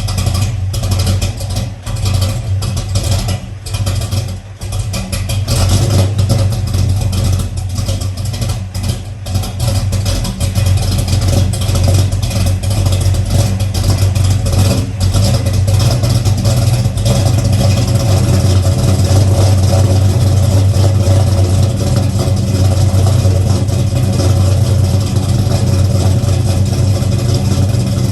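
Freshly built Oldsmobile Cutlass engine running on a cold start. It runs unevenly and choppily for the first several seconds, then settles into a steadier, slightly louder idle.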